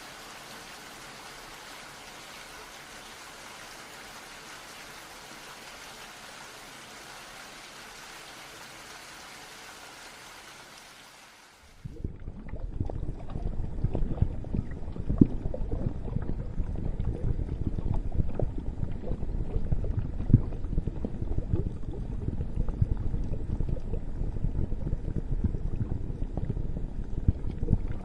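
Steady hiss of rain, then about twelve seconds in an abrupt switch to a louder, lower sound of bubbling, churning water full of small irregular splashes.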